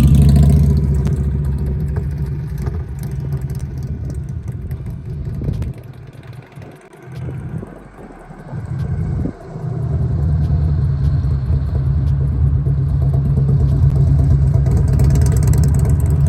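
Harley-Davidson motorcycle's V-twin engine running with a steady low rumble. It drops away about six seconds in, comes back briefly, then returns to full strength about ten seconds in.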